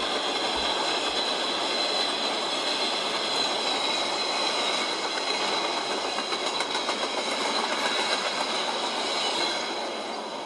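Freight train cars rolling past on the rails: a steady rattle and clatter of wheels with a thin high whine over it, fading near the end as the last cars go by. Thin and lacking bass, as if played back through a laptop speaker.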